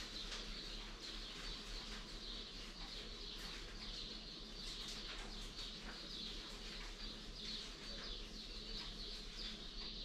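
Many birds chirping at once, a dense stream of short, high, overlapping chirps, with a faint steady low hum underneath.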